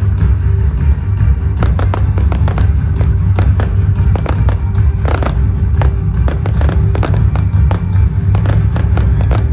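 Fireworks going off in irregular runs of sharp bangs and crackles over loud music.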